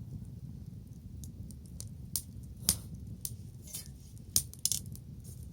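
Burning wood crackling in a bonfire, with about half a dozen sharp, irregular pops over a steady low rumble.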